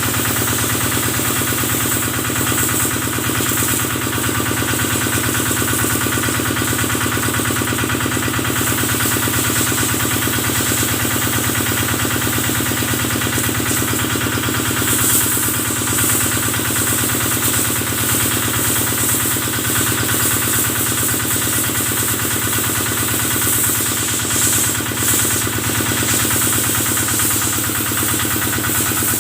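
Kubota stationary engine running steadily at an even speed, driving the machine used to wash the cattle.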